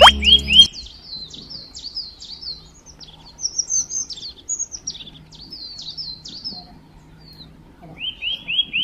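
Small birds chirping in quick runs of short, high chirps, with a few lower rising chirps at the start and again near the end. A burst of music with a sliding plop sound cuts off under a second in.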